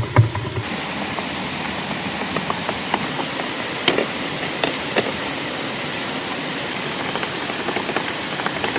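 Steady hiss of heavy rain with scattered sharp taps and drips. A low rumble cuts off about half a second in.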